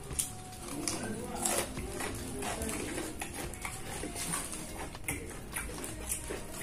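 Close-miked chewing of crispy fried chicken and rice: a string of irregular crunches and wet mouth clicks, with the paper wrapper crinkling as the chicken is pulled apart.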